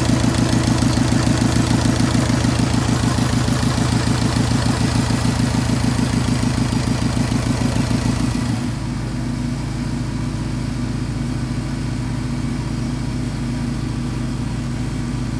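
Subaru WRX STi's turbocharged flat-four engine idling steadily. About eight and a half seconds in it gets somewhat quieter and a hiss in the upper range drops away.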